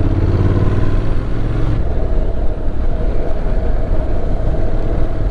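Motorcycle engine running at road speed under wind and road noise. Its steady note breaks off about two seconds in, and a rougher rumble carries on.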